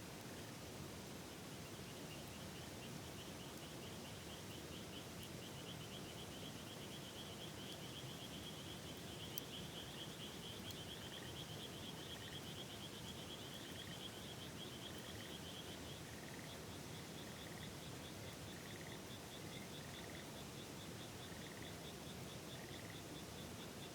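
Frogs calling in fast, high trills, one taking over from another partway through, with shorter chirping calls joining in later, over the steady rush of a river. A single sharp click about nine seconds in.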